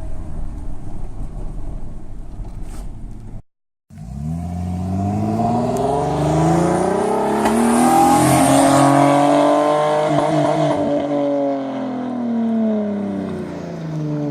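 Straight-piped exhaust of an Infiniti i30's V6, with a 2.5-inch straight pipe from the cat back. It drones low and steady at first. After a short break the engine note climbs as the car accelerates, peaks about eight seconds in, then drops away again.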